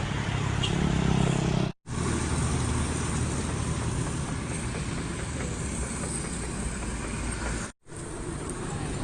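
Motor vehicle engines running with a steady road-traffic hum. The sound drops out abruptly twice, about two seconds in and near the end.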